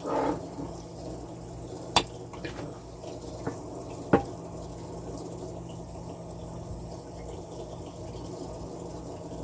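Glass kitchenware being handled: two sharp clinks, about two and four seconds in, with a lighter knock between them. Underneath runs a steady low hum and a steady rushing noise.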